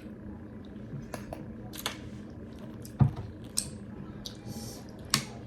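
Close-up eating sounds: scattered mouth clicks and smacks while chewing a meal of rice and curry, with a dull thump about three seconds in, the loudest sound.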